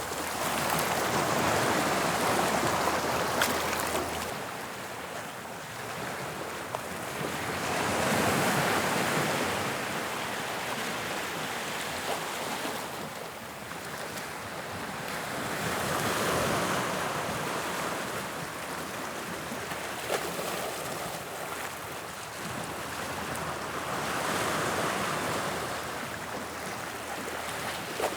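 Sea waves breaking on the shore, the surf swelling and falling away every few seconds.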